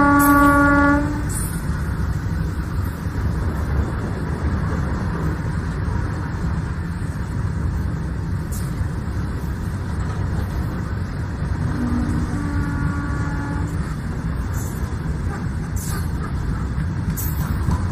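Passenger train rolling past along the platform with a steady low rumble of wheels on track. Its horn sounds: a blast that ends about a second in, and a shorter two-note blast about twelve seconds in.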